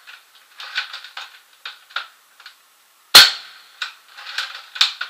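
Airsoft replica firing a single sharp shot about three seconds in, with lighter clicks and clatter before and after it.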